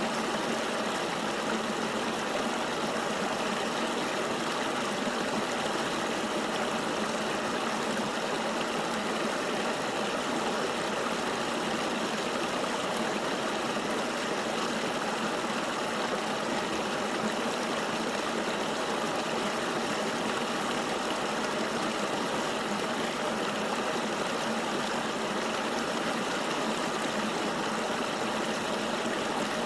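Flowing river water, a steady, even rush with no breaks or changes in level.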